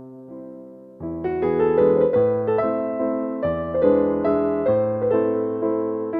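Piano music: a single held note fading, then about a second in a louder run of notes over a low bass note.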